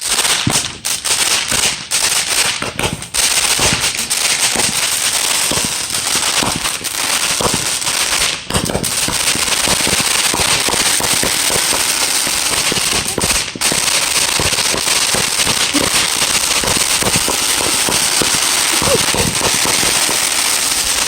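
Firework going off in a rapid, unbroken stream of pops and crackles, stopping abruptly at the end.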